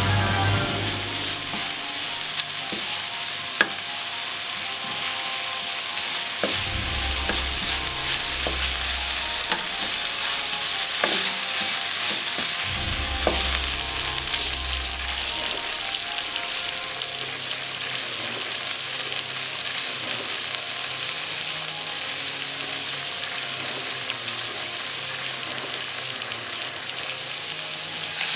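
Shallot, garlic and turmeric spice paste frying in oil in a pan with kaffir lime leaves and lemongrass, sizzling steadily as a wooden spatula stirs it, with a few sharp knocks of the spatula against the pan.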